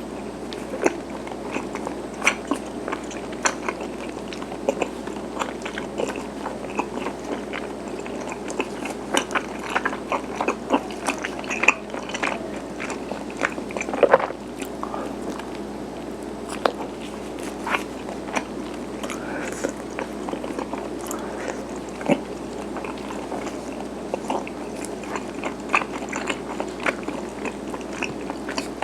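A person chewing chewy garaetteok (Korean rice cake sticks) close to the microphone, with many small wet mouth clicks at irregular intervals over a faint steady background hiss.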